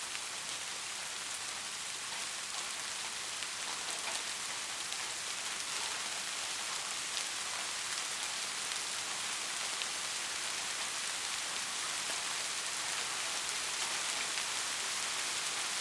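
Steady rain: an even hiss of many drops, with single drop ticks here and there.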